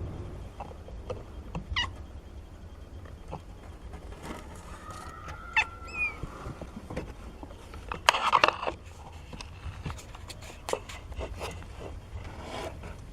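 Seventeen-day-old kittens mewing in short, high calls, one falling in pitch about six seconds in, with a louder, noisier burst about eight seconds in and small clicks and scuffles around them.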